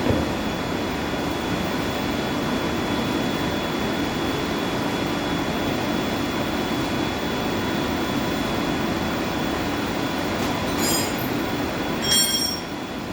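Steady running noise of boiler-room machinery, with a thin constant whine. Near the end come two brief ringing metallic clinks, like a metal tool knocked against metal.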